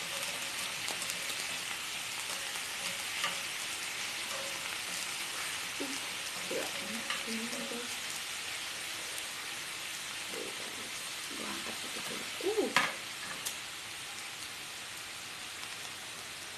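Pork belly slices and sausages sizzling steadily in a non-stick pan as they grill. A few short clatters and one sharp knock come about three-quarters of the way through.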